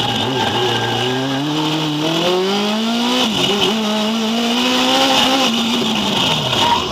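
Drift car engine heard from inside the cabin, revving up under power, dropping briefly about three seconds in, then climbing again more slowly before easing off near the end.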